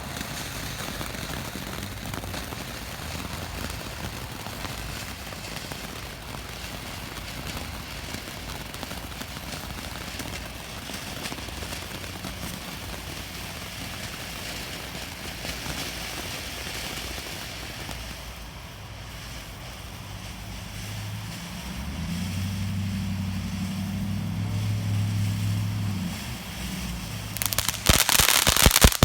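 Consumer firework fountain spraying with a steady hiss. It grows louder about two-thirds of the way through, and near the end it breaks into dense crackling as the crackling-flower effect fires.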